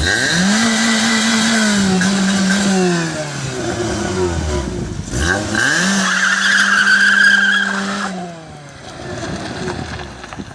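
VAZ-2112's four-cylinder engine revved up hard twice. Each time it holds high revs for about three seconds and then falls back. A steady high whistle rides on top of each rev, the whistle that the car is said to make.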